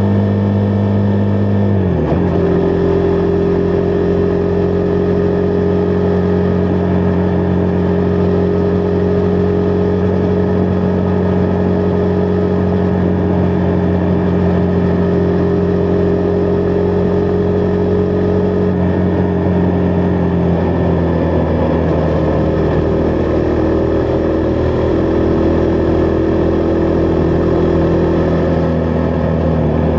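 Husqvarna Vitpilen 401's single-cylinder engine running at a steady cruise under a rider, over wind and road noise. The engine note drops sharply about two seconds in, as on an upshift, eases lower again about two-thirds through, then climbs near the end.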